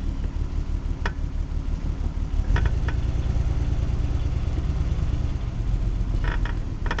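Wind rumbling on the camera's microphone, a steady low buffeting, with a few short sharp clicks about a second in, around two and a half seconds in, and near the end.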